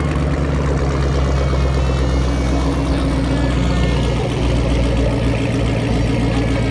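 A car engine running at a steady idle, loud and close.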